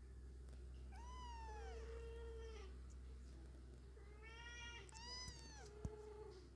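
A domestic cat meowing twice, faintly: two long meows that fall in pitch at the end, one about a second in and another about four seconds in. A short sharp click follows just after the second meow.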